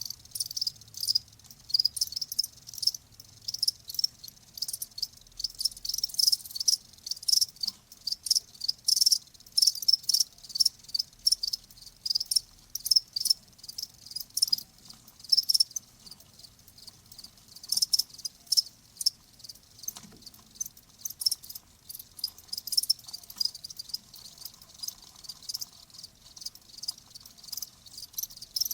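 Crickets chirping, a dense run of short high-pitched chirps that overlap and come at uneven spacing.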